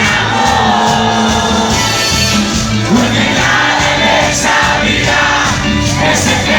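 Live cumbia band playing with a steady beat and percussion, with crowd voices singing and shouting along.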